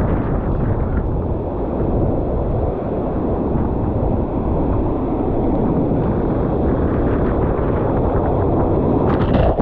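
Strong wind buffeting the microphone over the steady noise of heavy surf against the rocks, with a louder surge of noise near the end.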